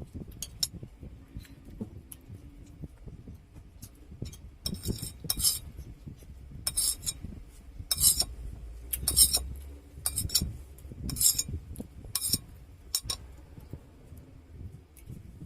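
Eating sounds: cutlery clinking and scraping against a plate in a run of about ten sharp strokes, roughly one a second, starting about a third of the way in.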